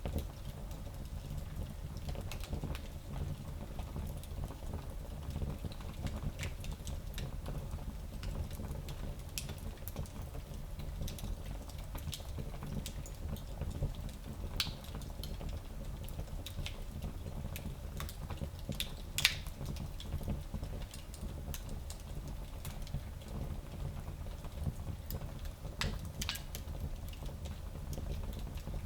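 Fire burning in a small fireplace: a steady low rumble of flames with scattered crackles and pops, one sharper pop about two-thirds of the way through.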